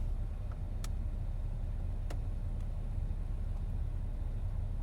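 Steady low rumble of a Jeep driving, heard from inside the cabin, with a couple of faint clicks about one and two seconds in.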